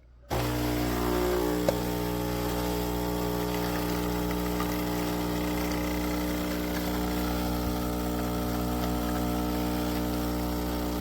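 Philips 3200 Series automatic espresso machine's water pump running with a steady buzzing hum while brewing. It starts abruptly just after the start, gives one brief click about a second and a half in, and cuts off abruptly at the end.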